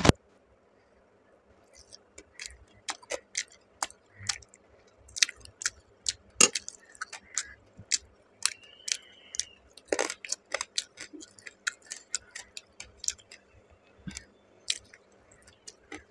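Close-up eating sounds of a person chewing rice and fish curry: wet mouth clicks and lip smacks, a few a second. They begin about two seconds in and keep on irregularly.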